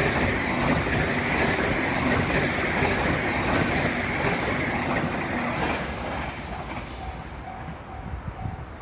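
A train running through a level crossing, loudest at the start and fading away after about six seconds. The crossing's warning bell rings in a steady repeat of about two dings a second, heard plainly again near the end as the train noise dies away.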